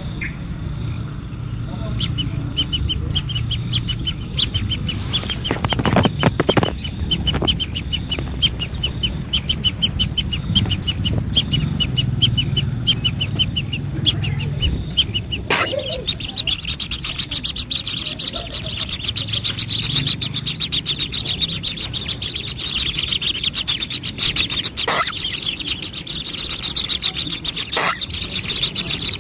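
Bird chirping in a rapid run of high repeated notes, about four a second, which gives way to a denser, continuous high chirring about halfway through. A steady high insect drone runs underneath, and a few sharp knocks come through.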